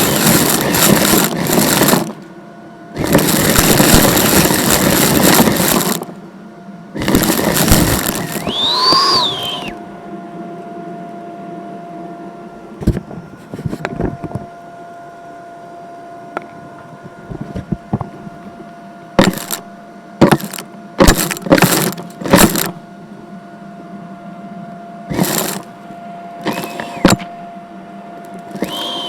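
A vacuum cleaner switched on and off, running in three loud bursts of a few seconds each. After that comes a steady hum, broken by scattered clicks and knocks.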